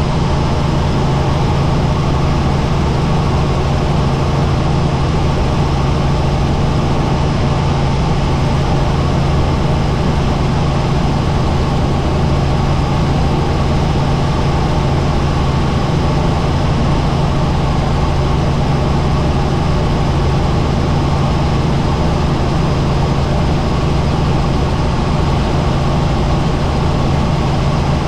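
Helicopter in flight: a steady, loud drone of engine and rotors with a strong low hum, unchanging throughout.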